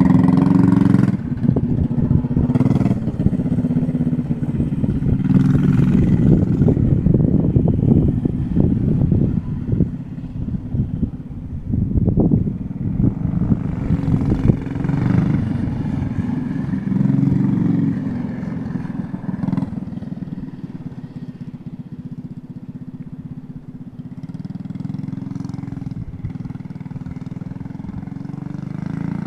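212cc Harbor Freight single-cylinder engine on a minibike with a straight-pipe exhaust, running under way and revving up and down as it is ridden. It gets fainter during the second half as the bike moves off.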